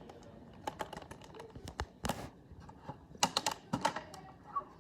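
Irregular light clicks and taps of small plastic toy figures and props being handled and set down on a hard surface, with a quick cluster of clicks past the middle.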